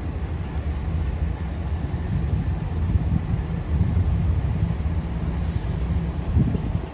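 Diesel passenger train's engines running with a low, steady rumble as it gets ready to pull out, with wind buffeting the microphone.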